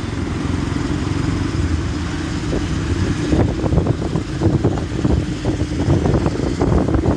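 Yamaha FZ-S motorcycle's single-cylinder engine running while ridden in city traffic, with a steady engine note and a choppier, pulsing sound in the second half.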